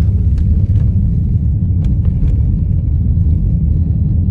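Steady low road rumble inside a car cabin, from a car driving at about 40 mph on a snow-covered road, with a few faint clicks in the first half.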